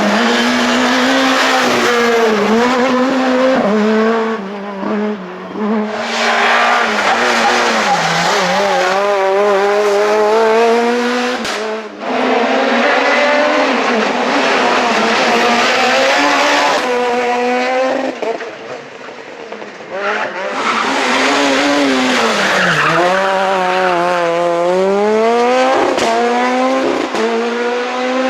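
Super 2000 rally car's two-litre naturally aspirated four-cylinder engine driven hard, revving up and shifting gear again and again. It briefly lifts off and quietens twice, then pulls hard once more.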